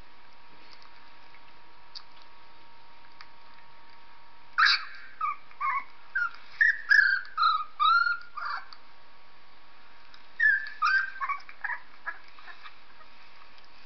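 High-pitched dog whimpers and squeals. A run of short, sliding cries starts about four and a half seconds in and lasts about four seconds, and a shorter run follows about ten seconds in.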